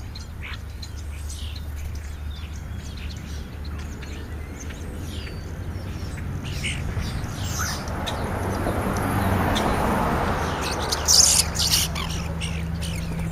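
A flock of European starlings calling at a feeding pile: many short chirps, whistles and squawks, with a louder burst of harsh squawks about eleven seconds in. A broad rushing noise swells in the middle and fades again, over a steady low hum.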